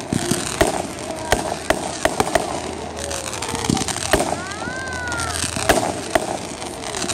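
Fireworks display: a steady run of sharp bangs and pops from aerial shells bursting, with a pitched tone that rises and falls about halfway through.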